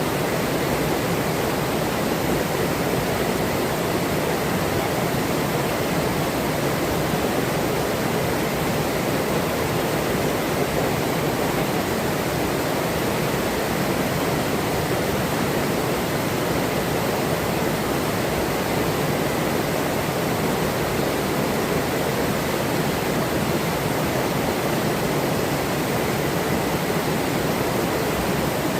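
Forest river's running water: a steady, unbroken rush.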